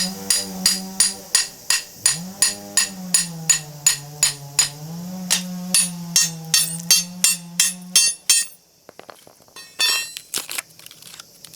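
Hammer striking a steel chisel driven into a small transformer's iron core, about three sharp ringing blows a second, with a low hummed tune sounding over them. The blows stop about eight seconds in, followed by a few light metallic clinks as the pieces come apart.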